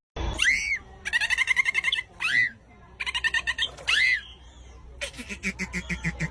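A dolphin calling. Three short arched whistles, each rising then falling in pitch, alternate with stretches of rapid pulsed chattering, and a longer pulsed stretch comes near the end.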